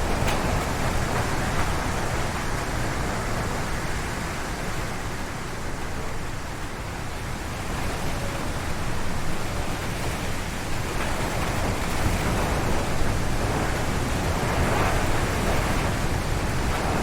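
Strong wind howling through forest trees: a steady rush with a deep rumble beneath. It eases for a few seconds in the middle and then builds again in fresh gusts.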